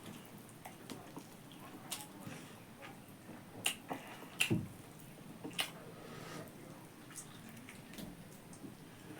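Close-up eating sounds: pork being chewed, with irregular wet clicks and smacks of the mouth, the loudest near the middle.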